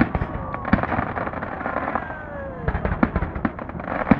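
Fireworks display: rapid, irregular bangs and crackling from bursting shells, with a few falling whistles and a dense crackle near the end.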